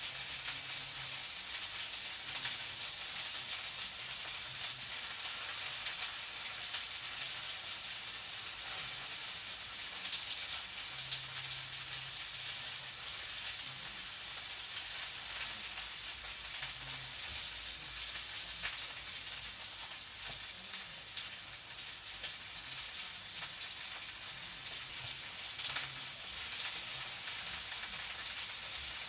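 Food frying in a pan: a steady sizzle with fine crackles.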